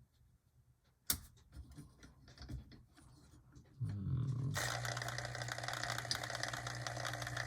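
HO-scale Life-Like EMD F40PH model locomotive's pancake motor starting up about four seconds in and running with a rough, steady buzzing whine. It doesn't sound great: it probably needs to be lubricated. A sharp click comes about a second in.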